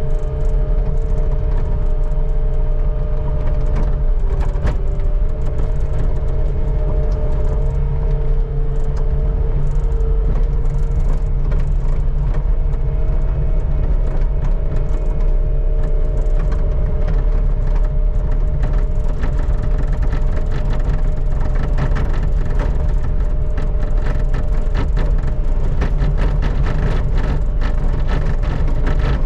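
Skid steer engine running steadily under load, with two steady whining tones over its rumble. Frequent clicks and rattles come in over the second half as the bucket scrapes snow off the pavement.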